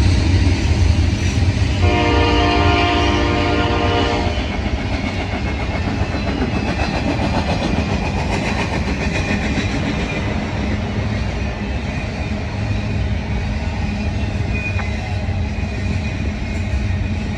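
A train passing close by, with a steady low rumble and wheel noise on the rails. About two seconds in, its horn sounds a chord of several notes for about two seconds.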